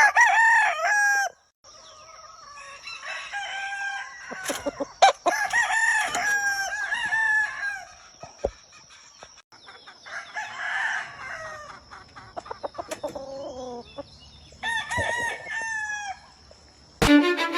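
Gamefowl roosters crowing, several crows one after another with short gaps between them, over a steady high-pitched thin tone.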